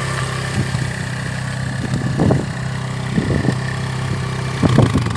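Kawasaki KLX140 dirt bike's small single-cylinder four-stroke engine idling steadily, with a few short louder blips over it.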